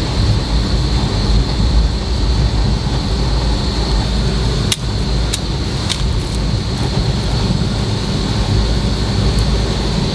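Steady rumble of a moving passenger train heard inside the coach. A few sharp cracks about halfway through as a papad (appalam) is broken by hand.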